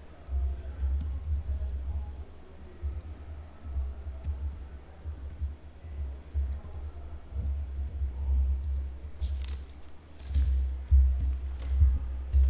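Typing on a computer keyboard, with a few sharper key clicks near the end, over background music.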